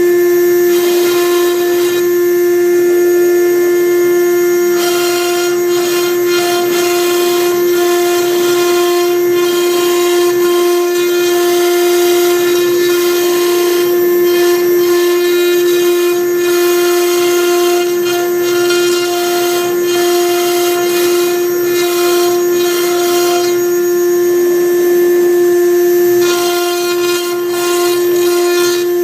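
6090 CNC router's spindle running with a steady high whine while a V-bit engraves MDF, its cutting noise coming and going as the bit moves through the board.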